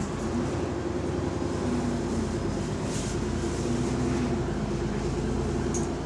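Bus engine and exhaust running under load, getting louder at the start with its engine note shifting in pitch; the title says this bus has a small exhaust leak.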